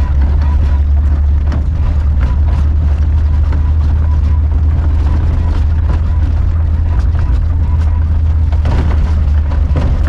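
A Volkswagen Kombi van driving, heard from inside the cabin: a loud, steady low engine drone with frequent knocks and rattles, and a stronger knock near the end.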